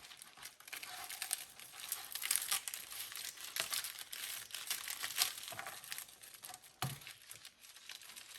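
Packaging crinkling and rustling as a new gauge is unboxed by hand, a busy run of irregular sharp crackles.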